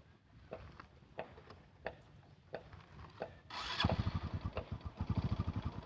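Scattered light clicks, then about three and a half seconds in a motorbike engine starts with a brief hiss and settles into a rapid, even idle beat.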